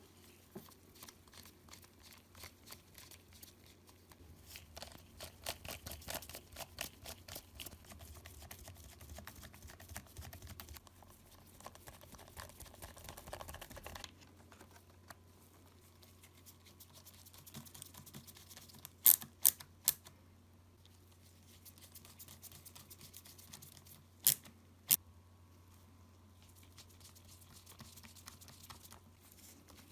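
Small clicks and taps of hands and tools working on a Nintendo Switch console's internal parts: a rapid run of light ticks for about the first half. Later come three sharp clicks in quick succession, then two more a few seconds after.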